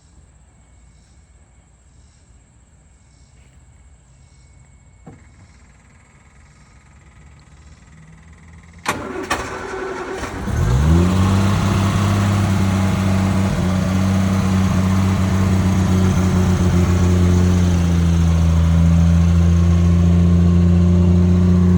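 Triumph GT6 straight-six engine on a cold start. After a quiet stretch with a single click about five seconds in, the starter cranks briefly at about nine seconds and the engine catches within about two seconds, then settles into a steady fast idle.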